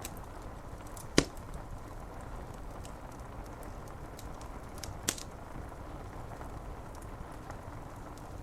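A wood fire crackling against a steady hiss of rain on window glass, with faint scattered ticks and two sharp pops, a loud one about a second in and a smaller one about five seconds in.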